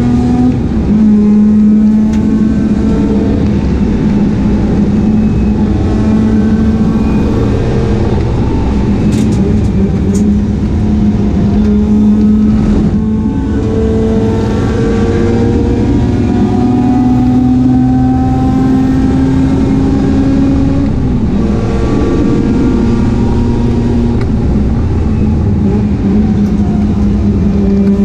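Mazda RX-8's twin-rotor rotary engine running hard at race pace. Its pitch climbs under acceleration and drops back at each gear change or lift, over and over.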